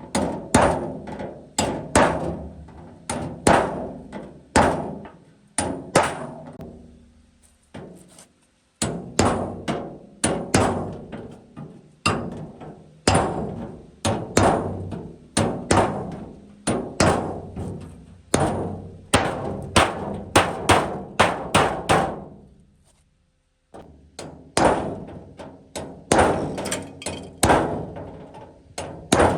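A hammer beating on metal in steady runs of blows, about one and a half to two a second, each blow ringing briefly. The hammering stops twice for about a second.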